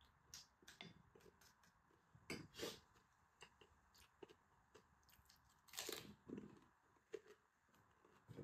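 Faint crunching and chewing of crisp pani puri shells, with small crackling clicks as the shells are cracked and handled, and two louder bursts of crunchy biting about two and a half and six seconds in.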